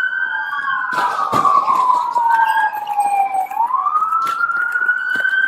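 Police siren wailing, its pitch rising and falling slowly, with a second siren overlapping. A couple of sharp knocks come about a second in.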